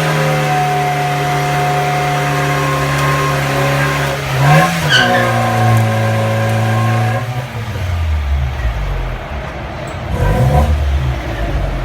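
Tofaş Doğan car engine held at steady high revs while drifting, with the wheels spinning. About four seconds in the revs dip briefly and climb back. Just after seven seconds they fall to a lower, rougher running, with one short rev near the end.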